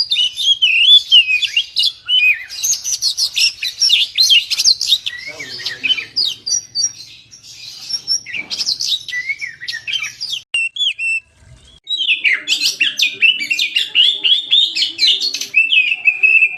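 Oriental magpie-robin (kacer) in full song: a fast, varied run of whistled and chattering notes that breaks off for about a second near eleven seconds in, then starts again.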